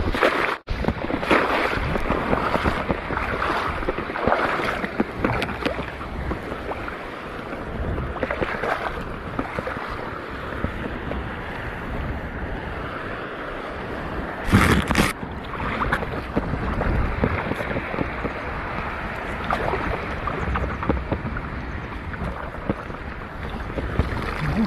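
Wind buffeting the microphone over the steady wash of shallow sea water, with one short louder burst about fifteen seconds in.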